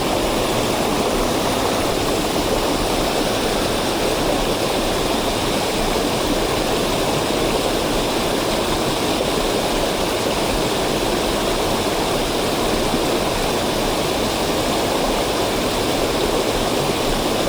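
Mountain headwater stream rushing steadily.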